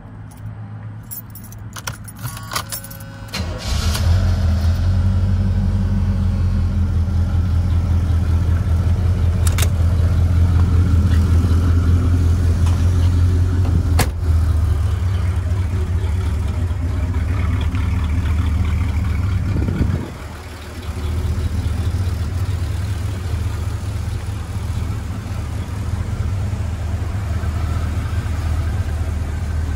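Keys jingling and clicking at the ignition, then a 1984 Chevrolet Monte Carlo SS's V8 starts about three and a half seconds in and settles into a steady, deep idle. A couple of sharp clicks come during the idle, and the level dips briefly about twenty seconds in before picking up again.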